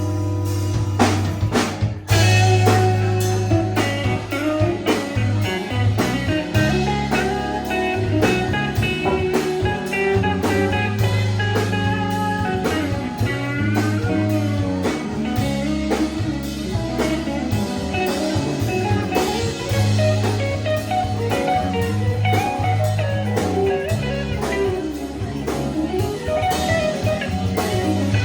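Band playing an instrumental blues-rock passage: guitar lines over a steady bass and drum beat, without singing.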